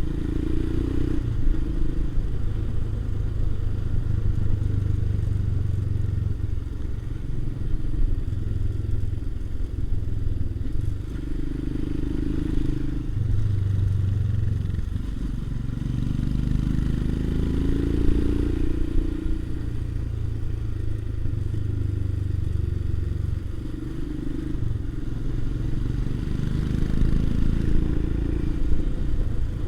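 Motorcycle engine running steadily under way on the road, its note shifting in pitch as the rider changes speed, most clearly rising and falling around the middle.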